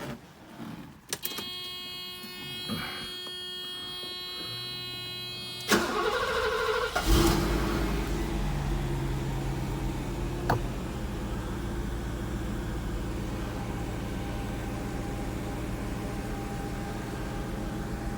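1989 Mercedes-Benz 560SL's 5.6-litre V8 cold-started after sitting for more than a week. A steady electric whine is heard first, then about six seconds in the starter cranks for a second or so. The engine catches and settles into a steady cold idle.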